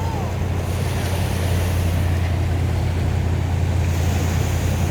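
A boat's motor running with a steady low drone, under a haze of wind and sea noise.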